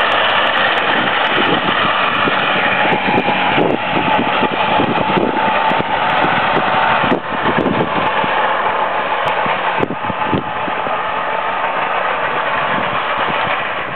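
Go-kart's 440 snowmobile two-stroke engine running loudly and steadily, briefly dipping in level three times.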